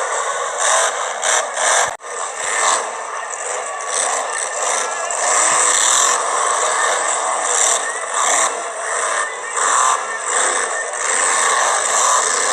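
Monster truck engine running and revving hard, loud and harsh with little bass, cut off sharply for an instant about two seconds in.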